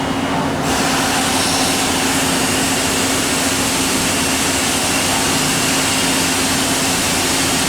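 Kuraki KHM-125 horizontal machining center running through its automatic pallet change: a steady machine hum under a hiss, which grows fuller and brighter about a second in and then holds.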